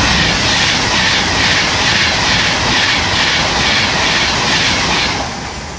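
Virgin Trains Class 390 Pendolino electric train passing at speed: a loud rush of wheel and air noise with a regular pulse about twice a second, falling away about five seconds in.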